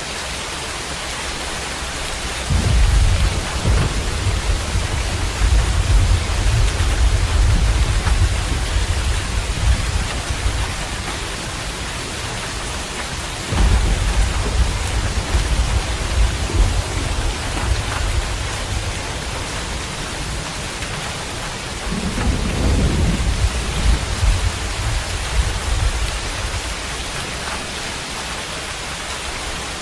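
Steady rain hiss with three long, low thunder rumbles rolling in on top of it, about two and a half, thirteen and a half, and twenty-two seconds in, each lasting several seconds before fading back into the rain.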